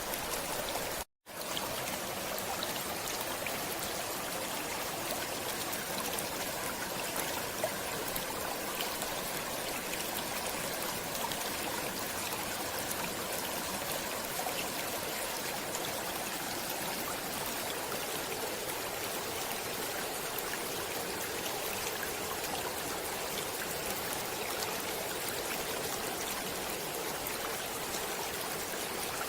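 Stream water flowing and trickling steadily, with a brief cut to silence about a second in.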